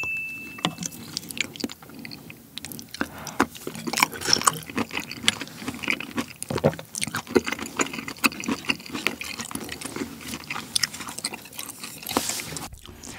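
Close-miked chewing of soft, sticky grilled kiri mochi in cream sauce with bacon and green chilli: wet smacking, squelching and many small sticky clicks of the mouth. A short, high electronic tone sounds at the very start.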